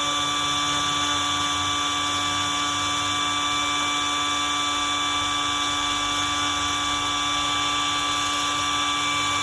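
Dremel rotary tool running at a steady high speed: a constant high-pitched whine that holds without change.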